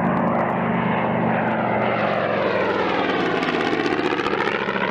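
Piston engine of a WWII propeller fighter droning steadily as the plane flies past, its tone sweeping down and back up as it passes.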